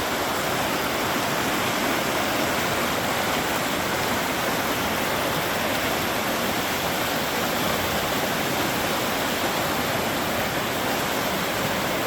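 A river running high, its water rushing steadily with no let-up.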